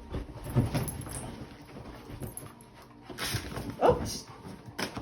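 Two dogs play-fighting: irregular scuffling and bumping with short dog vocal noises, including a brief falling cry about four seconds in.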